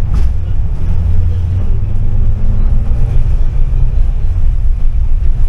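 Tram running on its rails: a loud, steady low rumble, with a short click at the very start.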